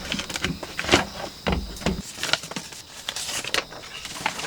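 Hands working at a small object being put together, with scattered clicks, rustles and crinkles.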